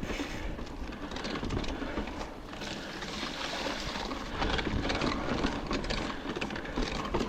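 Mountain bike climbing wet rock: tyres rolling and a rain-soaked drivetrain clicking and grinding, over a steady hiss of rain and wind on the helmet camera.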